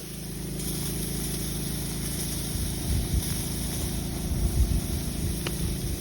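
A steady engine hum at idle, with irregular low rumbles in the middle.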